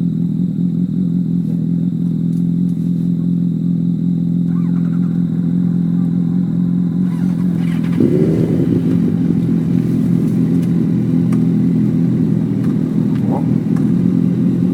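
Motorcycle engine idling steadily close by, with a brief blip of the throttle about halfway through that lifts the pitch before it settles back to idle.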